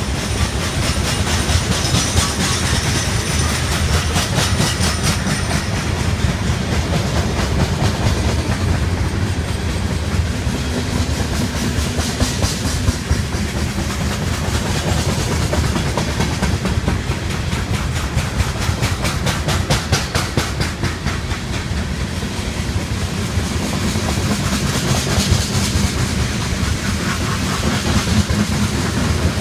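Freight train cars rolling past: a steady heavy rumble with rapid clickety-clack of wheels over the rail joints, and a high hiss that swells and fades a few times.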